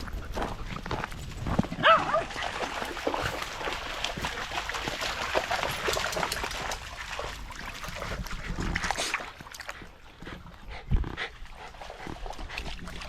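A dog barks once, short and high, about two seconds in, over a steady rushing noise that fades around nine seconds, with scattered knocks and scuffs.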